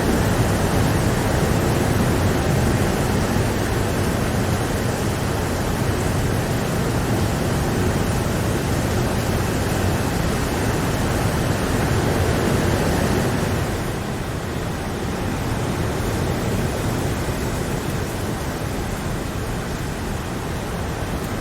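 Steady rain, an even wash of noise with no separate drops standing out. About two-thirds of the way through it eases a little and loses some of its hiss.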